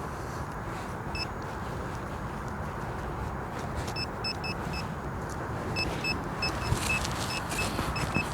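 Handheld pinpointer beeping as it picks up metal in the dig: a single short beep about a second in, a quick run of four around four seconds, then a faster string of beeps near the end. A steady rumble of wind on the microphone runs underneath.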